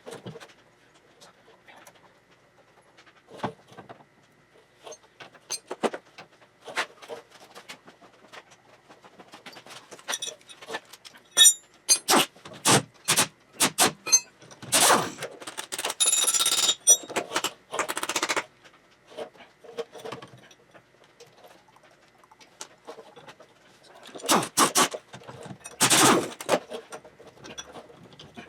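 Metal-on-metal clinks, rattles and scrapes from hand tools and parts being worked on a VW buggy's front beam suspension. They come in scattered clicks, with busy runs of clatter about halfway through and again near the end.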